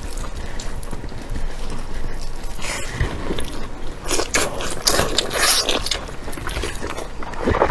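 Close-miked biting and chewing of pork large intestine, with irregular wet mouth noises and crunchy, scraping bites, busiest about four to five seconds in.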